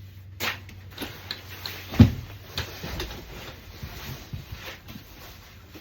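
Parts of a Graco Pack 'n Play playard being handled and fitted into place: a run of clicks and knocks, with one loud knock about two seconds in.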